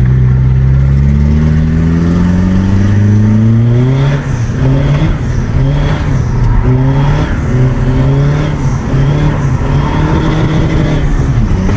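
A modified Peugeot 206 2.0 HDi four-cylinder turbodiesel, with a decat and silencer-delete exhaust, pulling hard under load. Its pitch rises for about four seconds, breaks briefly, then wavers up and down under changing throttle before steadying near the end.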